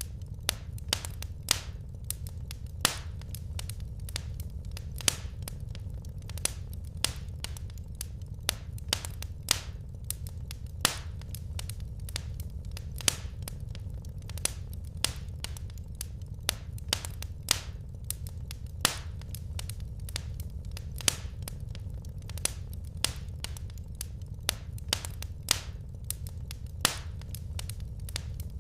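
Wood fire crackling: a steady low rumble of flames with frequent sharp irregular pops and snaps from the burning logs.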